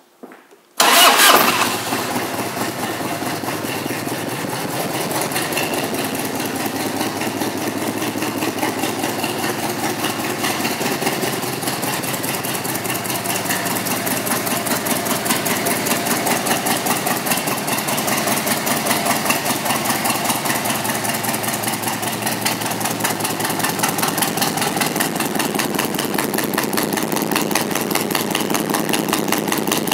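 1997 Harley-Davidson Road King's V-twin engine, fitted with aftermarket pipes, started about a second in, with a brief loud burst as it catches, then idling steadily with an even pulsing beat.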